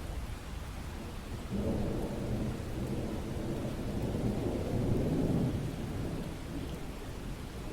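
Steady rain hiss with a low rumble of thunder that starts suddenly about a second and a half in, swells, and dies away a few seconds later.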